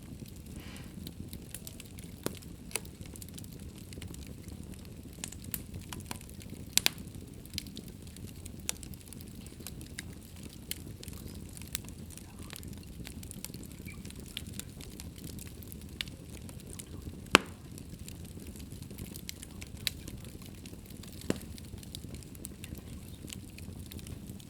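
Wood fire burning in a fireplace: a steady low rumble of the flames with scattered sharp crackles and pops, one loud pop about 17 seconds in.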